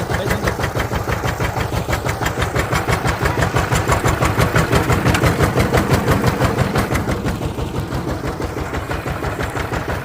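Diesel engine running with a fast, even chugging beat. It grows louder a few seconds in and eases off somewhat after the middle.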